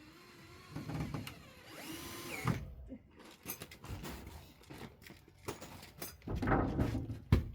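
Power drill running in short bursts, with a rising whine about two seconds in, amid knocks and clatter of work on wood. Near the end a run of sharp, evenly spaced knocks begins.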